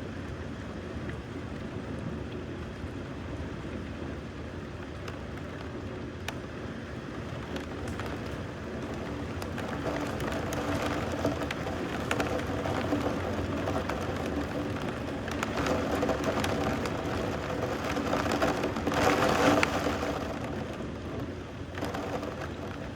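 Steady rain falling, with scattered drop ticks. From about ten seconds in, a louder swelling noise builds, peaks near the end and then eases.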